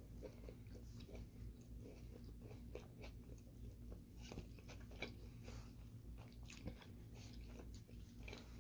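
A person chewing a mouthful of chicken gyro in soft pita bread: faint, irregular small clicks of the mouth, with no words.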